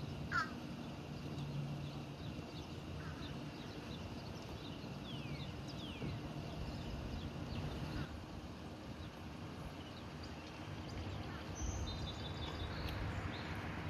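Birds chirping in short, falling calls scattered throughout, over a steady low rumble and hiss.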